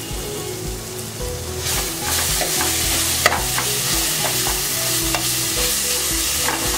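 Onion-tomato masala sizzling in a stainless steel pan while a steel spoon stirs and scrapes through it. The sizzle grows louder about two seconds in, and the spoon clinks against the pan several times, once sharply around the middle.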